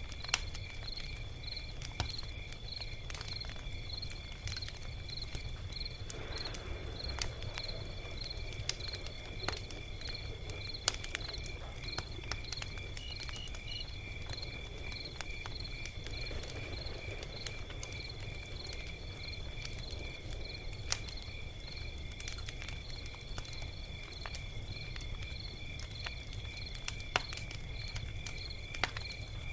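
Log fire crackling, with scattered sharp pops and a low steady rumble, over crickets chirping steadily about twice a second.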